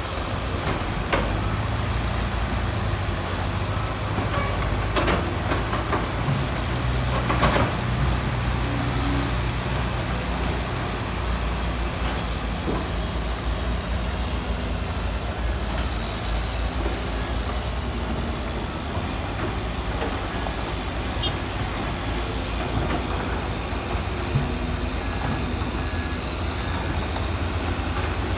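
Heavy diesel construction machinery running steadily, its engine a low drone, with a few sharp metallic knocks in the first several seconds.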